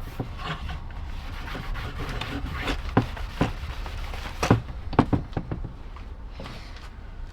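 A used plastic instrument surround being cleaned and handled: rubbing and wiping, then several sharp clicks and knocks of the plastic part being set down or moved.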